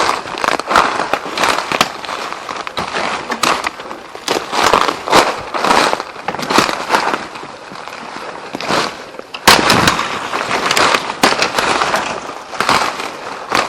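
Footsteps crashing through dense forest undergrowth: dry twigs and dead branches snapping and brush scraping past, in uneven loud crackles. The sharpest snap comes about nine and a half seconds in.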